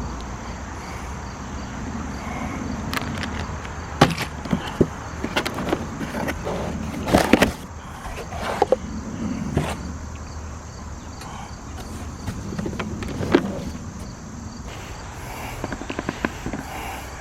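Handling of the compressor's accessory kit and packing: scattered clicks and knocks over a steady background, with a short burst of rattling about seven seconds in.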